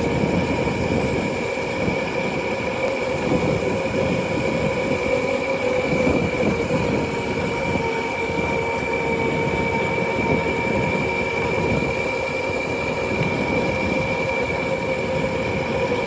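Motorcycle riding at a steady speed: a constant whine that holds its pitch, over rough wind noise buffeting the microphone.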